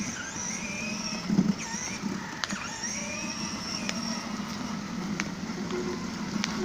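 Small motorbike's motor running steadily.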